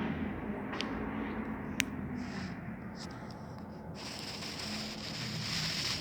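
Night-time outdoor ambience: a steady background hiss with a low hum, a few sharp clicks in the first half, and a high buzz that swells in about two-thirds of the way through.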